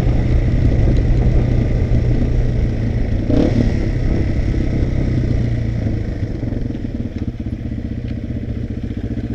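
Motorcycle engine running, with a brief knock about three seconds in. About six seconds in it eases off and settles to a lower, steadier note.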